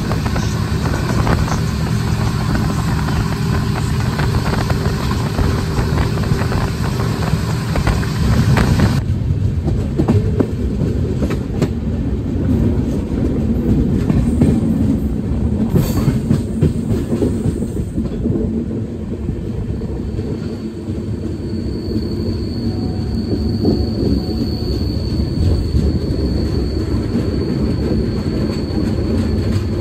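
Tamil Nadu Express passenger coach running at speed, heard from on board: a steady rumble of wheels on the track. About nine seconds in, the higher hiss drops away suddenly, leaving mainly the low rumble.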